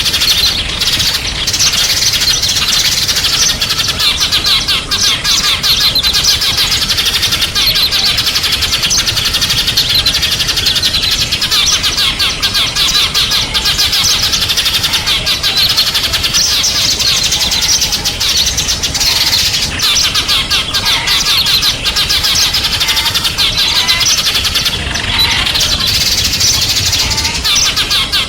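Dense, continuous twittering of small songbirds: many rapid, high chirps overlapping without a break.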